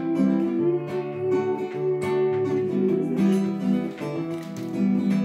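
Acoustic guitar strumming chords in a short instrumental passage between sung lines of a song.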